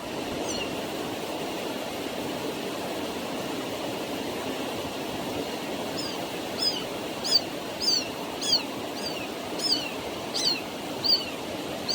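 Steady rushing background noise. About halfway through, a run of short, high-pitched calls begins, each falling in pitch, repeated roughly every half second.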